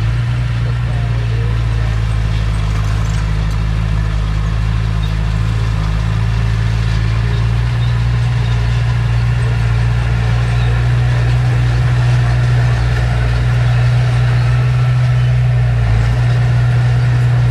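Heavy diesel engine of earthmoving machinery running steadily at a constant low drone, with no change in pitch.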